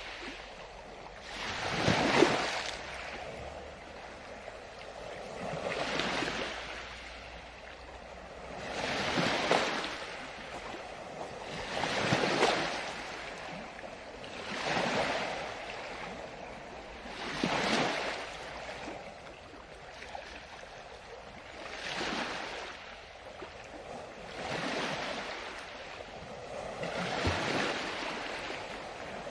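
Ocean waves breaking and washing on the shore, each surge rising and fading in a steady rhythm about every three seconds.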